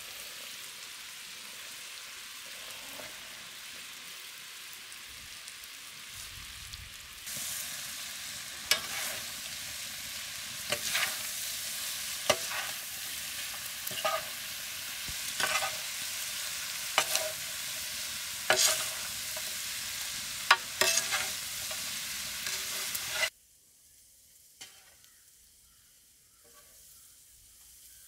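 Chicken, masala and freshly added onions sizzling in oil on a tawa, while a spatula stirs and scrapes against the pan about every second and a half. The sizzling grows louder about a third of the way in, then cuts off suddenly near the end, leaving near silence.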